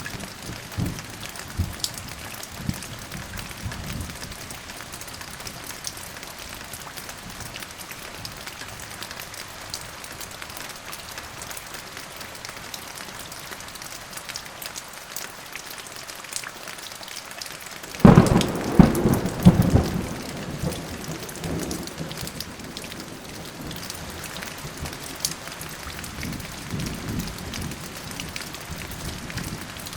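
Thunderstorm: steady rain with a sudden loud thunderclap a little past halfway that rolls on in rumbles for several seconds, and softer rumbles of thunder near the start and again near the end.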